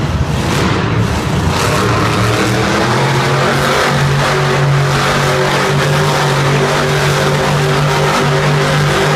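Monster truck engine running loud at high revs, rough and changing at first, then holding a steady note from about two seconds in.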